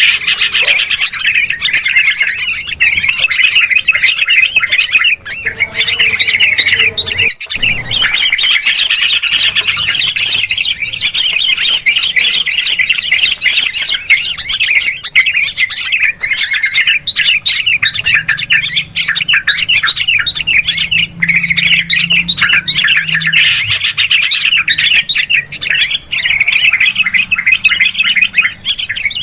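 A bird-lure recording of yellow-vented and sooty-headed bulbuls chattering noisily, many quick overlapping calls with no pause. It is the agitated calling bulbuls make when mobbing an owl. The sound cuts out for an instant about seven seconds in, as at an edit.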